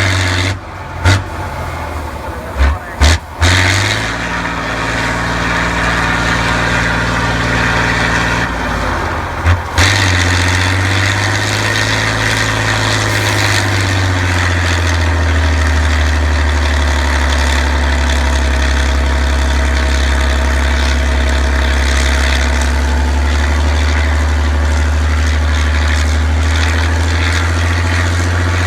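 Heavy off-road trial truck's engine running under load, its pitch shifting for a few seconds and then holding steady. A few sharp knocks come in the first ten seconds.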